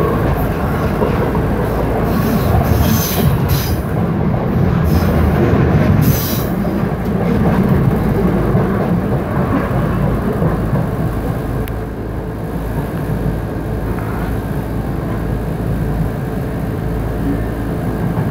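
Passenger train running along the line, heard from inside the carriage: a steady rumble of wheels on the track, with a few brief high hissing bursts a few seconds in.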